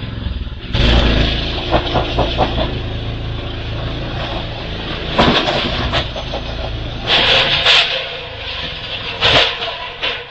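Minibike's small engine running and revving in surges, with rattling and clatter. The sound drops away suddenly at the end.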